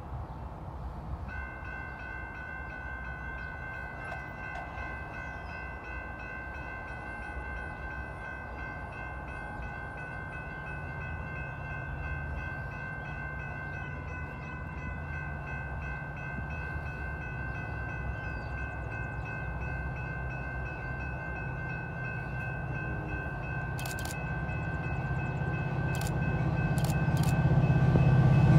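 Metra commuter train's diesel locomotive approaching, its low rumble growing louder toward the end. From about a second in, a steady rapidly pulsing electronic warning bell rings, typical of a grade-crossing or station crossing signal.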